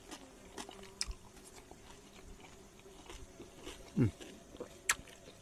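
A person chewing and biting food with scattered small crunches and mouth clicks. About four seconds in there is a brief falling tone, and a sharper click comes just before the end.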